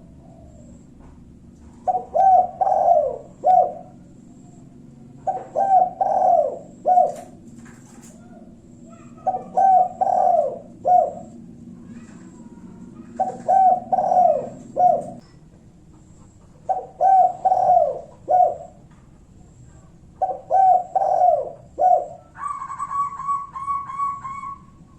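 Spotted dove (tekukur) cooing: six phrases, each a quick run of cooing notes finished by one short separate 'kuk', repeated about every three and a half seconds. Near the end a higher, steady trilling tone takes over for a couple of seconds.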